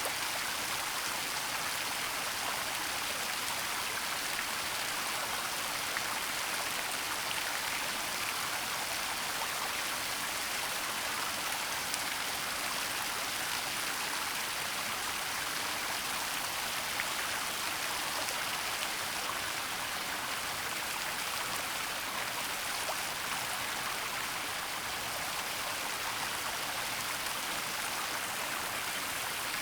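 Waterfall in a forest: a steady, even rush of falling water, with a few faint ticks of drops now and then.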